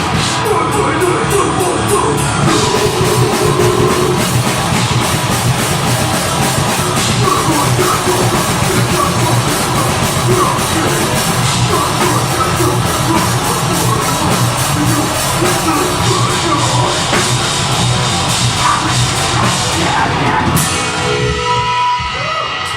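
Deathgrind band playing live: loud, dense drums and distorted guitars with yelled vocals. The song stops about 22 seconds in, leaving a ringing guitar tone.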